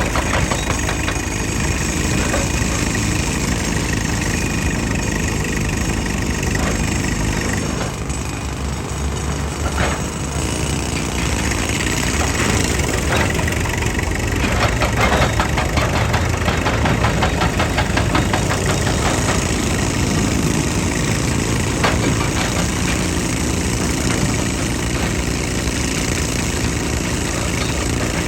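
Heavy machinery diesel engine running steadily, with a few short knocks over it.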